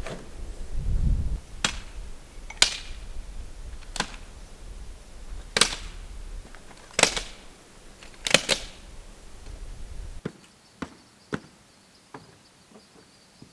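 A series of six sharp knocks and clacks, one to one and a half seconds apart, over a low wind rumble that stops suddenly about ten seconds in; after that only faint small clicks.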